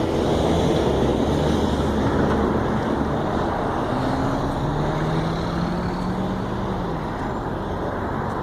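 Interstate freeway traffic booming past: a dense, steady wash of tyre and engine noise from passing vehicles. A low engine hum rises slightly in pitch midway and fades out about seven seconds in as one vehicle goes by.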